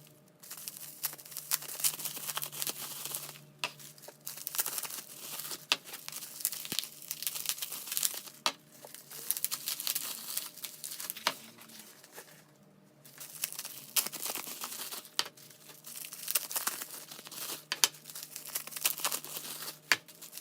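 Slime being squeezed and played with by hand: dense crinkly crackling full of small clicks and pops, in bursts broken by a few short pauses.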